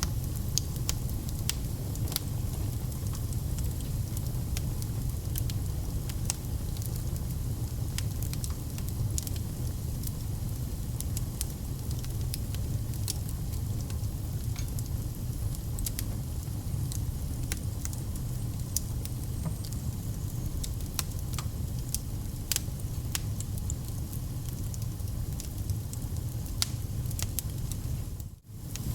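Wood fire in a fireplace crackling, with scattered sharp pops over a steady low rumble. The sound drops out for a moment near the end.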